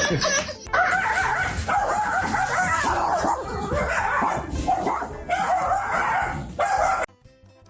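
A dog yipping and whining in a rapid string of short, high calls. The calls cut off abruptly about seven seconds in.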